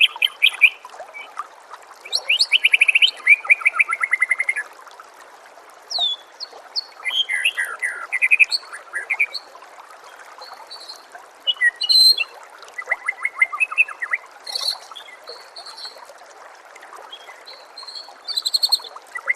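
White-rumped shama (murai batu) singing in varied phrases of rapid trills, whistled glides and high chips, with short pauses between bursts. A steady trickling-water hiss runs underneath.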